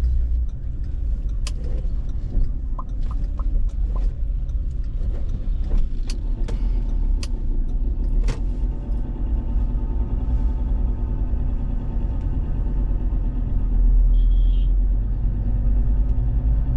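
Car driving on a road: a steady low engine and road rumble, with scattered clicks and knocks in the first half. From about halfway a steady engine hum comes in, getting louder near the end.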